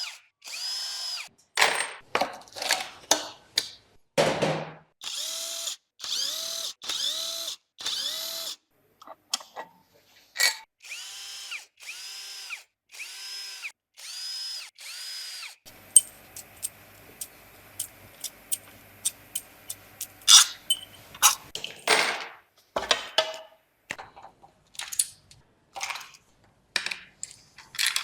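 Cordless power drill-driver spinning in many short bursts, each rising and then falling in pitch, as bolts are run out during the teardown of an Audi W12 engine. In the middle comes a stretch of rapid clicks and metal knocks over a low steady hum, with scattered clanks of parts elsewhere.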